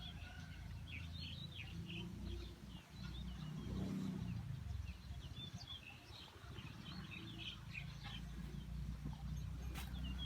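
Small birds chirping and twittering, many short calls scattered throughout, over a steady low rumble.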